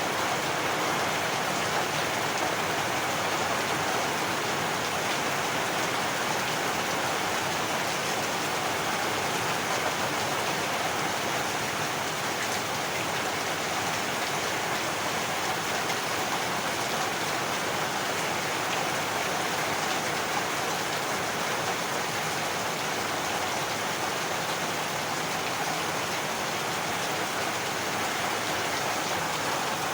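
Heavy rain falling steadily, an even hiss of rain on surfaces with no thunder heard.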